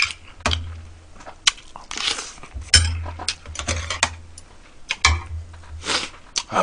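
Close-miked eating: chewing and mouth sounds in short, irregular bursts, with a few sharp clicks of a spoon against the dishes.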